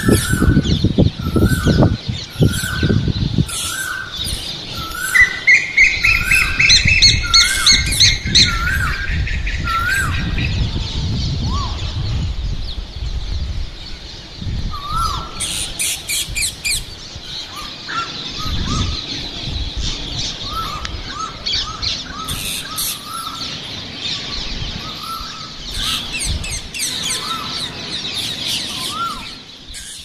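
Several birds chirping and calling, one repeating a short hooked note over and over with higher twittering around it. A low rumble sounds during the first few seconds.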